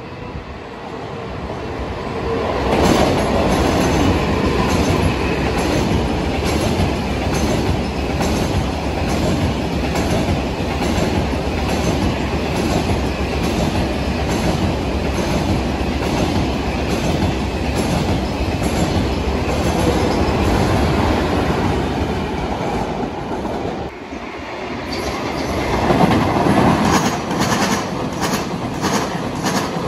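KTX high-speed train passing close by: a loud, steady rumble and rush of its wheels on the rails that builds over the first three seconds, with regular clacks as the wheels cross rail joints. The sound dips briefly about three-quarters of the way through, then comes back with the clacking more pronounced.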